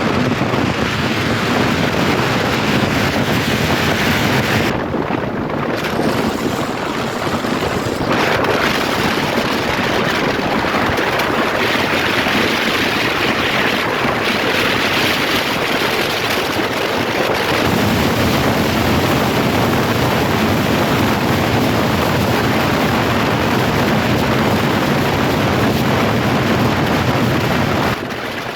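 Steady, loud rush of wind buffeting the microphone, mixed with road traffic noise.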